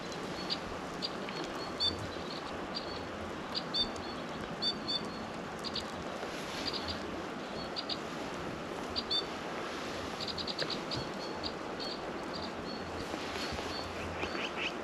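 Small birds chirping: short high calls repeated every second or so, with a quick run of notes about ten seconds in and another near the end, over a steady background hiss.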